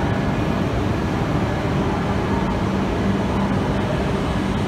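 H5-series Shinkansen train standing at the platform, its on-board equipment giving a steady rush of noise with a low hum that comes and goes.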